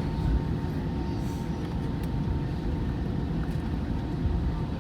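Cabin noise of an Airbus A320 taxiing after landing: a steady low rumble with a faint steady tone above it.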